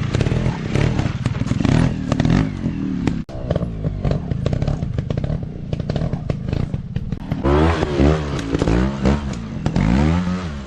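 Dirt bike engines running and revving off-road, the pitch rising and falling several times in the second half, with scattered clicks and clatter throughout.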